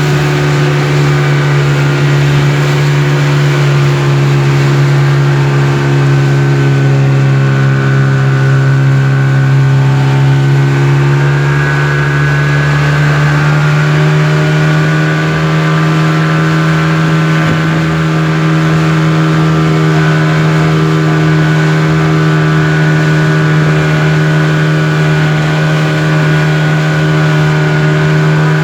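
Speedboat engine running steadily at speed, loud and close, with a shift in its pitch about halfway through.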